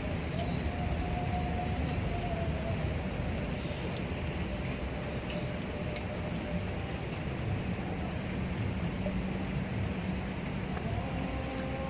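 A bird calling over and over, a short high falling chirp about twice a second, which stops near the end. Steady low background noise runs underneath.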